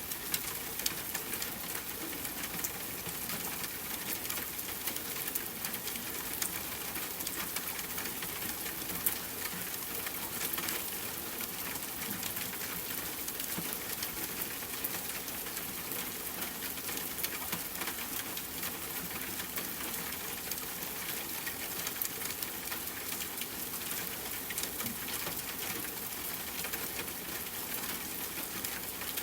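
Rain falling steadily on a tent with a campfire crackling: an even hiss studded with many small sharp ticks, a few of them louder.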